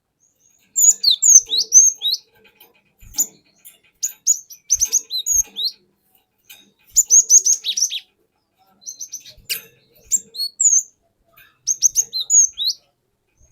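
Cinereous tit (glatik batu) singing: five bursts of rapid high chirps and quick sliding whistles, separated by short pauses. A few faint low knocks fall in the middle.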